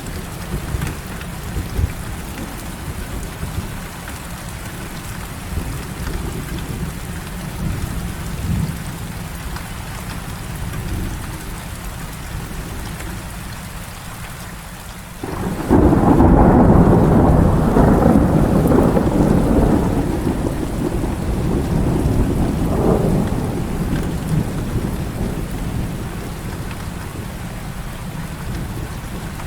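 Heavy rain falling steadily. About halfway through, a sudden loud thunderclap breaks in, louder than the rain, and its rumble fades away over the following several seconds.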